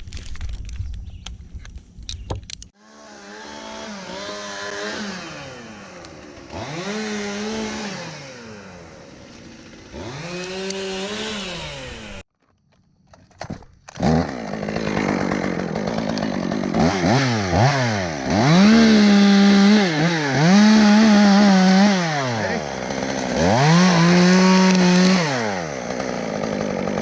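Chainsaw engine revving up and down repeatedly, the pitch climbing and falling in several throttle cycles, with a short gap about halfway through. It opens with a couple of seconds of scattered clicks before the saw comes in.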